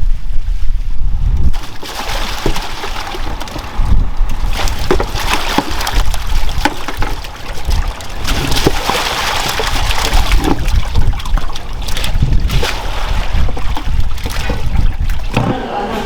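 Water splashing and trickling, with many short knocks and clatters mixed in, after a low rumble in the first second or so.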